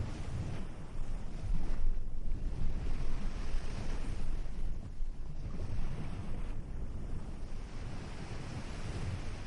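Ocean surf washing onto a beach, swelling and easing as the waves come in, with wind rumbling on the microphone.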